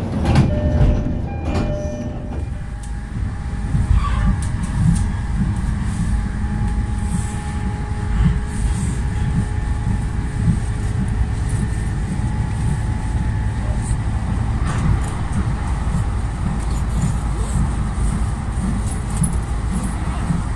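JR East E531 series electric train heard from inside the carriage, pulling out of a station and running along the line: a steady rumble of wheels on rail, with a few sharp knocks in the first few seconds.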